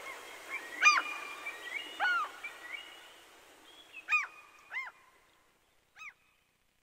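Birds calling: about five short, arched cries a second or two apart, growing fainter, over a faint hiss that dies away about three seconds in.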